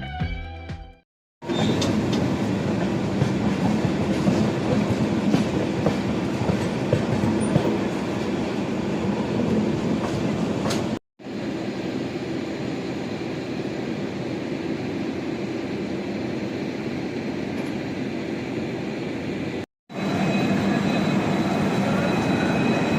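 Passenger train running along the track: a steady rumble of wheels on rails, in three stretches joined by two brief cuts.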